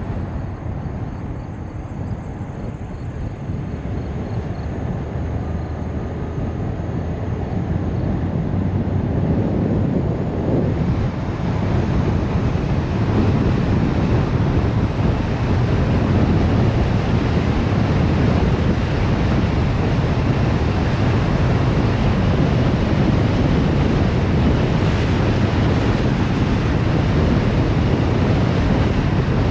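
Road and wind noise of a car driving along, a steady low rumble that grows louder over the first dozen seconds and then holds level.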